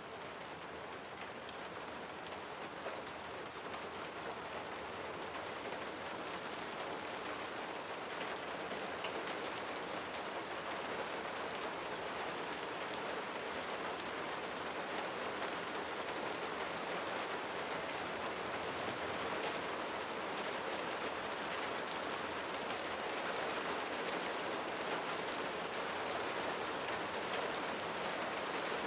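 Steady rain falling, a dense patter of individual drops over an even hiss, growing slowly a little louder.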